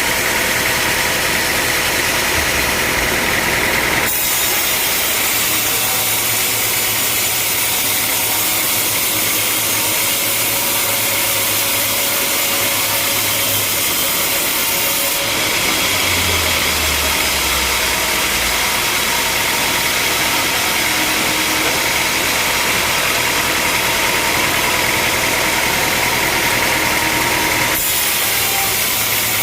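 Sawmill machinery running loudly and steadily while the saw cuts through a log. The sound changes abruptly about four seconds in and again near the end.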